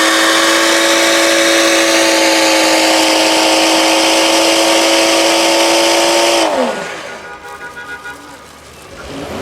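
A car engine held at high, steady revs for about six and a half seconds, then the revs fall away and it goes quieter.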